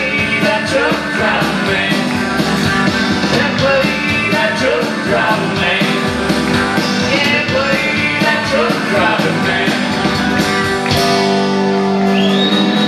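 Live country-rock band playing with drums, guitar and singing, moving into a sustained held chord near the end.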